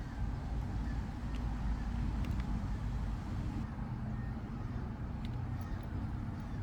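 An engine running steadily, with a few faint clicks.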